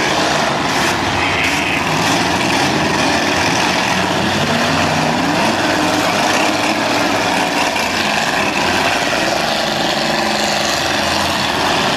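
Demolition derby cars' engines running together, a loud steady din with engine pitches shifting up and down.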